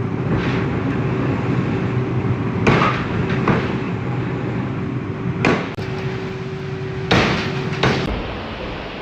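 Metal strikes from forging, about five blows at uneven intervals (two close pairs and one between), over the steady hum of running machinery.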